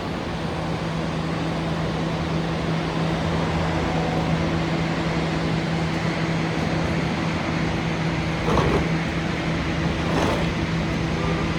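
Heavy construction equipment's diesel engine running at a steady low hum, mixed with city street traffic. Two brief louder noises stand out, about 8.5 and 10 seconds in.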